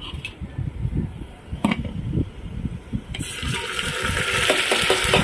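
Chopped tomatoes tipped from a steel plate into hot oil with browned onions, starting a loud sizzle about three seconds in that carries on steadily. Before it, a few low knocks and a single click.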